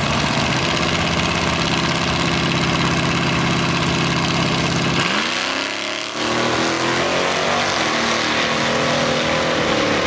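Two muscle car engines held at steady revs on the drag-strip start line, then launching about halfway through and revving up as the cars accelerate away.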